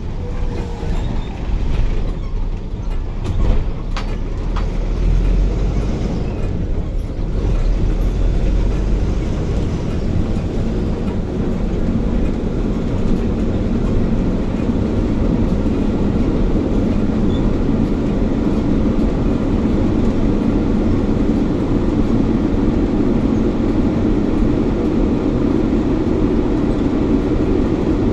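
Engine and road noise inside a moving bus, a steady rumble with a few sharp rattles or knocks about three to four seconds in. The engine note grows stronger about halfway through.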